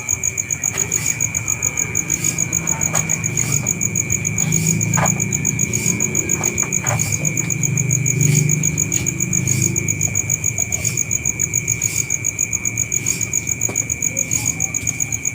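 Insects chirring in a steady, fast-pulsing high trill. A low rumble swells underneath between about two and ten seconds in.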